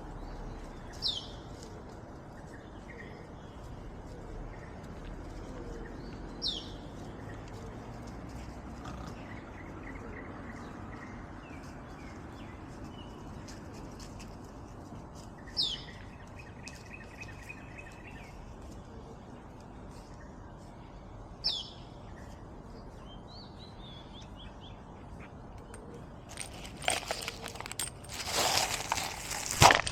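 A bird repeating a short, sharp, falling call four times, five or six seconds apart, with other faint chirps and a brief trill in between over a steady background hum. Near the end comes a burst of loud rustling and scuffling.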